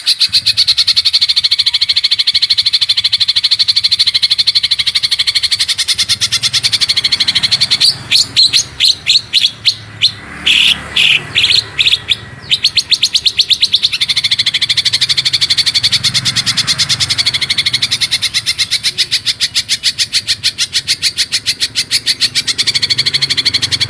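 Songbird tutor song of the 'roll speed' type: a very rapid, high trill of repeated notes. From about 8 to 13 seconds in it breaks into a few separate, louder notes, then the fast trill returns.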